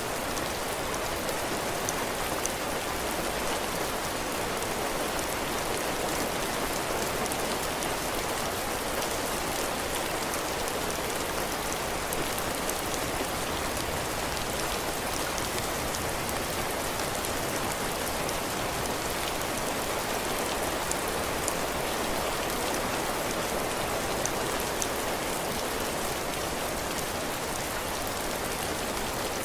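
Heavy rain falling steadily, drops pattering on a porch roof and the ground, with faint scattered drip ticks.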